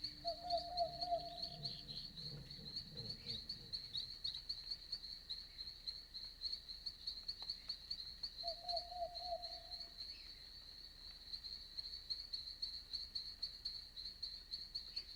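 Night-forest ambience of crickets chirping in a steady, rapid high pulse, with a lower trilling call from another animal twice, about a second in and again near nine seconds. A soft low rumble swells briefly early on.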